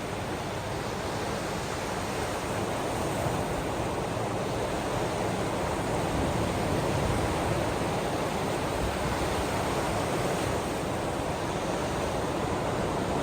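Ocean waves washing steadily on the shore, a continuous rushing wash that swells a little in the middle.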